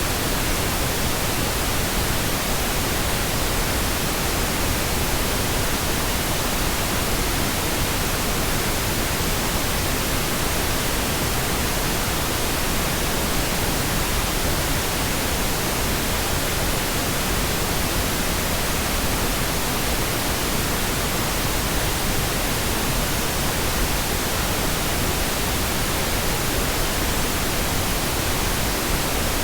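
Steady, unchanging pink noise: an even hiss spread across all pitches, with no events or changes.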